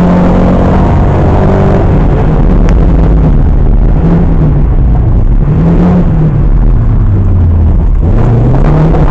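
Historic rally car's engine heard from inside the car under hard driving, very loud, its pitch rising and falling as it revs up and drops back through the gears. It falls to its lowest about eight seconds in, then climbs again.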